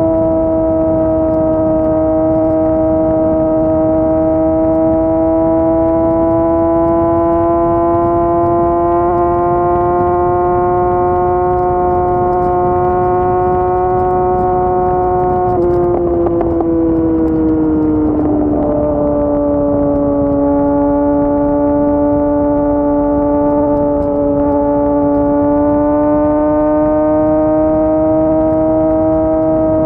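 Yamaha R6 sport bike's inline-four engine running hard at high revs. The pitch climbs slowly for about fifteen seconds, falls away over a couple of seconds just past halfway, then holds steady again.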